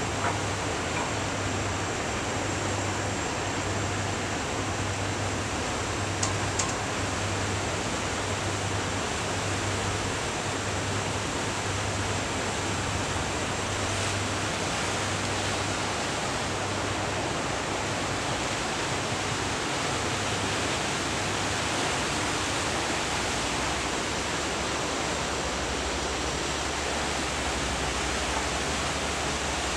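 The Surovi 8's large engine running steadily at about 600 RPM: a dense, even engine-room noise, with a low hum that swells and fades about once a second for most of the time before settling.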